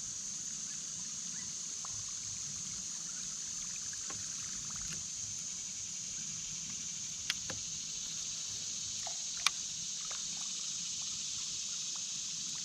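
Steady high-pitched insect chorus, typical of crickets, with two sharp clicks, about seven and nine and a half seconds in.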